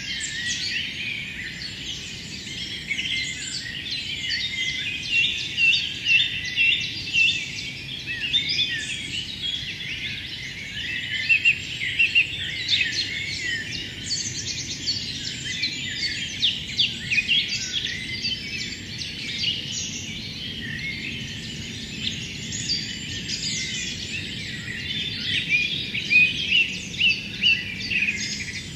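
A dense chorus of many songbirds singing at once: a steady stream of short, high, overlapping chirps and phrases.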